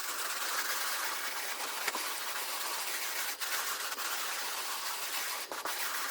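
A brush scrubbing sand into carpet: a steady scratchy scrubbing noise with no breaks.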